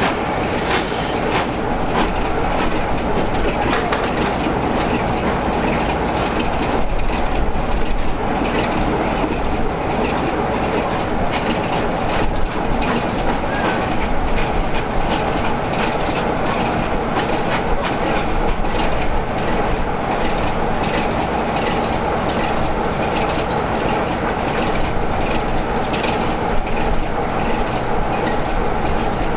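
Railway train running along the track: a steady rumble with frequent wheel clicks over the rail joints.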